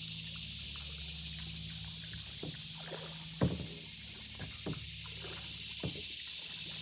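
Canoe paddles dipping and pulling through creek water: a handful of short splashes and knocks, the loudest about halfway through, over a steady background hiss.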